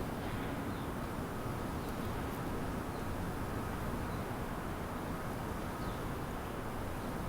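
Steady low rumble of city traffic, with a few faint, short bird chirps now and then.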